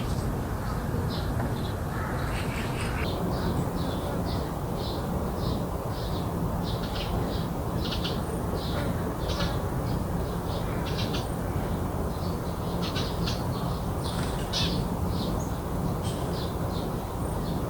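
Birds calling: a steady run of short, high chirps, a few each second, over a constant low background rumble.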